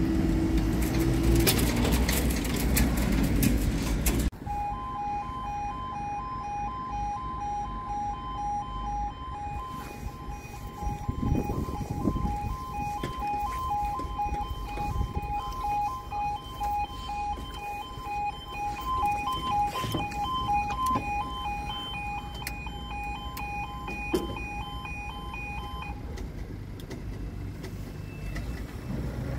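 A road vehicle passes for about the first four seconds. Then the level crossing's audible warning sounds a rapidly pulsing two-tone alarm, the warning that the crossing is closing, and it stops about 26 seconds in.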